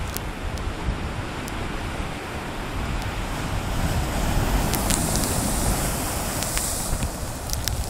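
Ocean waves surging and breaking against rocks, with wind on the microphone; the rush of water and spray grows louder and hissier from about halfway through.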